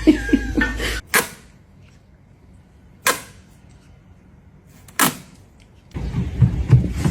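Three sharp knocks or clicks, about two seconds apart, each dying away quickly, with quiet between them.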